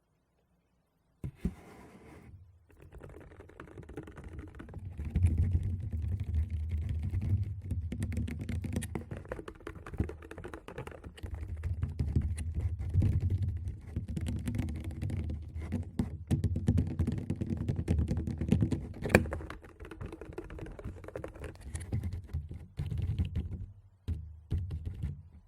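Fingers tapping and rubbing on a Tascam recorder's microphones: a dense run of quick taps and scratches over heavy low thumps. It starts about a second in, grows busier after a few seconds, and stops just before the end.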